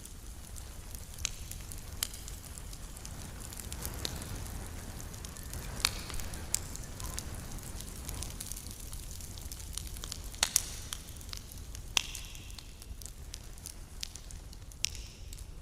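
Wood campfire burning, with a steady low rumble of flames and irregular sharp crackles and pops, a few louder pops about six, ten and twelve seconds in, and brief hisses.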